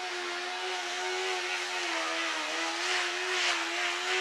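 A motor running with a steady hum whose pitch wavers slightly, over a light hiss, with a couple of brief scraping sounds about three seconds in.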